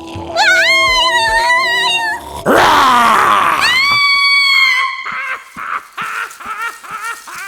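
Cartoon animal sound effects: a high, wavering cry, then a falling whoosh and a long, high held cry, followed by quick rhythmic ticks.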